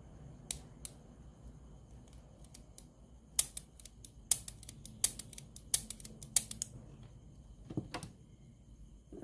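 A run of sharp clicks: two faint ones early, then about seven loud ones in quick succession in the middle, followed by a softer, duller knock near the end.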